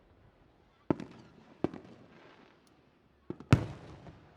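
Aerial fireworks shells bursting: four sharp bangs, each trailing off in a short rumble, the last and loudest near the end.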